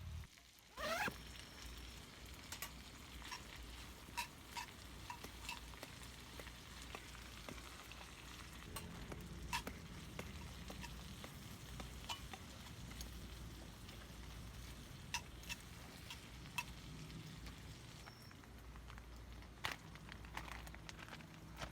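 Food frying in a cast-iron skillet over a wood campfire: a faint steady sizzle with scattered sharp crackles and pops. A brief rising swish about a second in.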